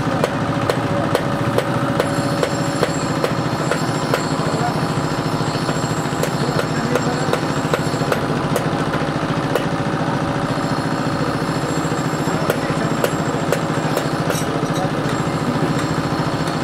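A machine running steadily with a fast, even pulsing, with a few sharp clicks over it.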